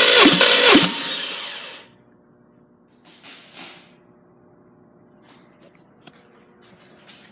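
Subaru EZ30 3.0-litre flat-six being cranked over on its starter for a compression test, with a rhythmic pulse at each compression stroke. The cranking stops about a second in and dies away. Two faint hisses and a few light clicks follow.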